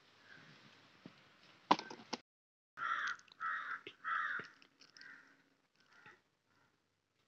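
A bird calling: four loud calls in quick succession about three seconds in, then a couple of fainter ones, after two sharp clicks.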